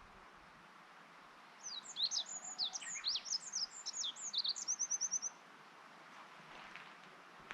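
A songbird singing one fast, jumbled high-pitched song of about three and a half seconds, starting a second and a half in and ending in a quick run of repeated notes.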